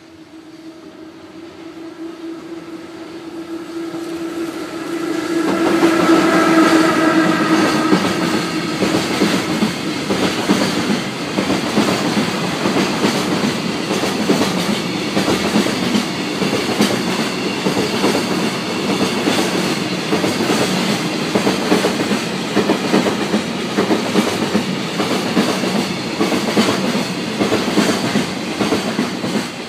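A long electric-hauled freight container train passing close by. A steady hum grows louder as the locomotive approaches and goes past about six seconds in, then the wagons' wheels clatter over the rails in a continuous clickety-clack.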